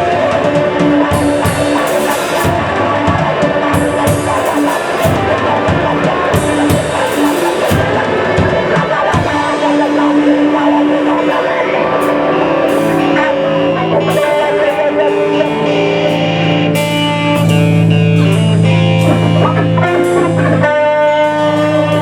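Live rock band playing, with drum kit and electric guitar. The drumming thins out about halfway through, and the music settles into sustained guitar and bass notes, holding a long chord near the end.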